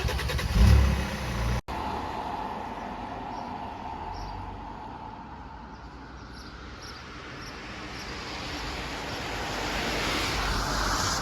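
Steady running noise of a tour bus on the road, heard from inside, with a faint hum that grows louder near the end. A brief clatter and a low thump come at the very start.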